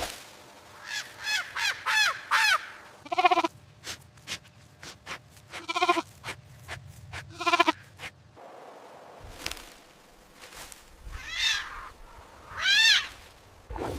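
Bleating farm animal, a sheep or goat, calling again and again. A quick run of about four short calls comes first, then several wavering bleats a couple of seconds apart, and two more calls near the end.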